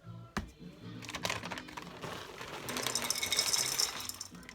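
Dry granola poured into a bowl: a dense pattering of small hard clusters that builds, is loudest about three seconds in, and tails off near the end.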